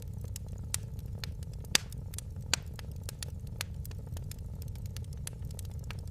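Wood fire crackling in a fireplace: a steady low rumble of burning with many small sharp crackles and a few louder pops, the loudest a little under two seconds in.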